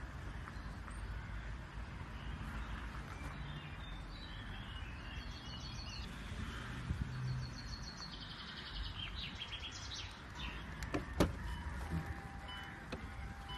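Birds chirping over a low steady background rumble, with one sharp click near the end.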